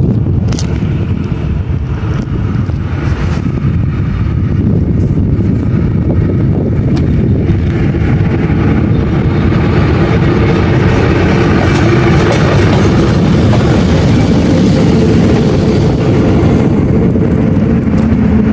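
A train passing close by: a steady, loud rumble of the locomotive and wheels on the rails that grows a little louder towards the middle, with a few faint clicks.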